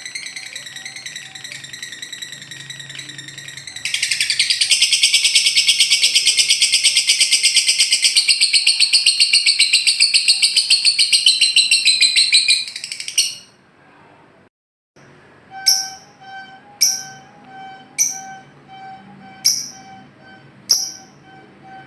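Lovebird 'ngekek' call: a loud, very rapid chattering trill that starts about four seconds in and runs for about nine seconds before stopping. After a brief cut, five short sharp chirps come about a second apart over a steady whistle-like tone.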